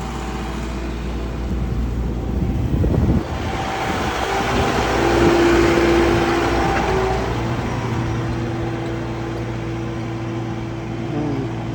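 A farm vehicle's engine running and passing close by, growing louder to a peak about halfway through and then fading, over a steady low engine hum.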